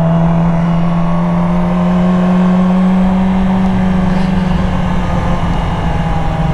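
Yamaha R6 sport bike's inline-four engine running under way at fairly steady revs, its pitch rising slightly and then easing back down from about three seconds in.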